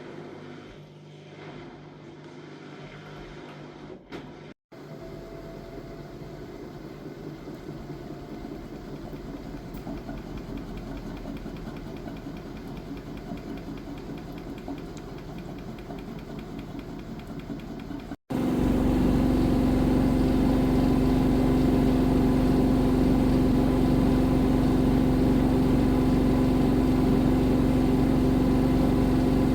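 V-ZUG Adora washing machine running with a steady mechanical whirr that slowly grows louder. After a brief break about 18 seconds in, it comes back much louder and steady, with a constant hum.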